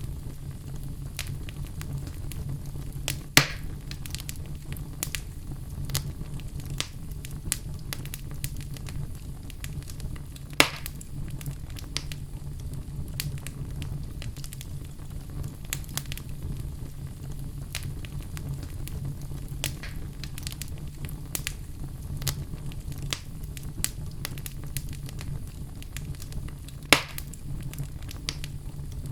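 Wood fire burning in a fireplace: a steady low rumble of flame with frequent small crackles and three louder pops from the burning logs.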